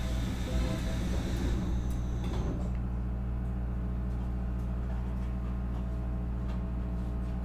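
Nankai 8300 series train car standing with its doors working: about two and a half seconds of sliding-door and rattling noise at the start, then the steady hum of the car's onboard equipment with no motor pitch rising.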